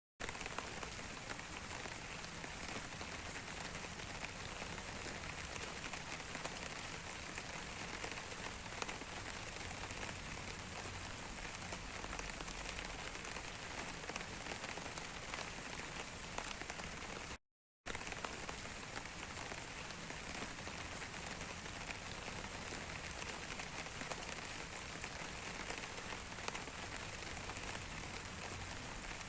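Steady rain falling on a surface: an even hiss dotted with many small raindrop ticks. The sound cuts out completely for about half a second a little past the middle.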